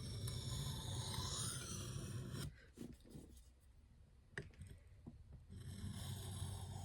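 Nitro-V steel knife blade drawn along a sharpening stone in light freehand passes: a long scraping stroke, a pause with a couple of small clicks, then another stroke starting near the end. These are edge-refining passes made without pressure, so as not to raise a burr.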